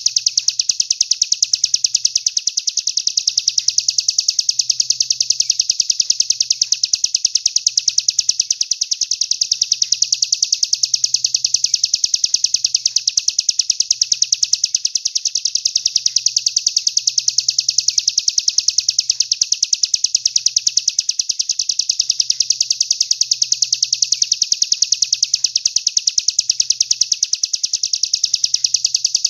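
Songbird trilling: a fast, unbroken run of evenly repeated high notes that holds steady throughout, the kind of 'tembakan' song phrase used as masteran to teach competition songbirds.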